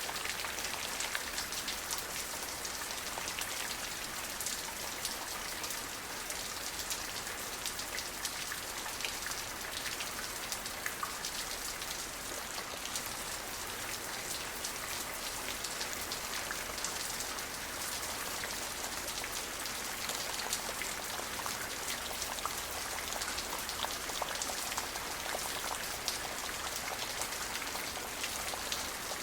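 Steady rain falling, with many close individual drops pattering on a surface over an even high hiss.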